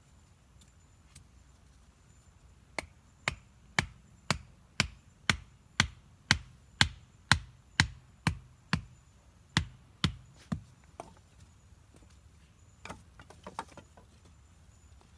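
Steady chopping on wood with a hand tool, about sixteen sharp strokes at roughly two a second, then a few lighter knocks near the end.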